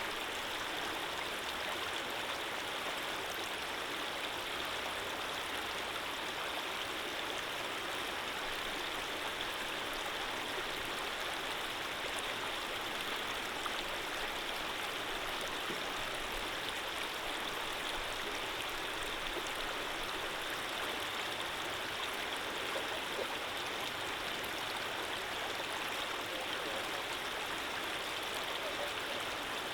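Steady rush of running water, like a gently flowing stream, with no drops or splashes standing out.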